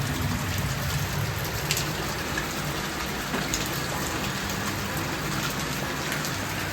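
Steady hiss of falling water, even and unbroken, with a few faint sharper drip-like ticks.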